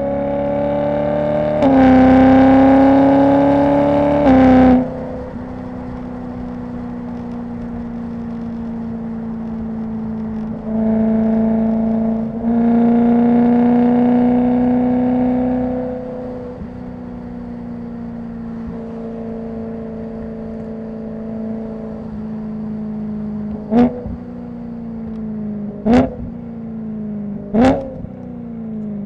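BMW E90 M3's S65 V8 running through an aftermarket exhaust while driving. It pulls hard twice, in the first few seconds and again in the middle, then gives three quick throttle blips near the end, and the revs fall away at the close.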